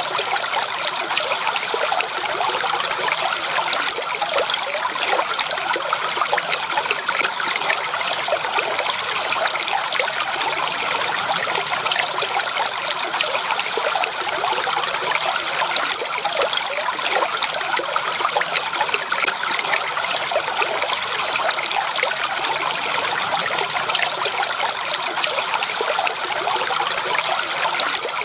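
A small stream of water trickling and babbling steadily over stones, with many small splashes.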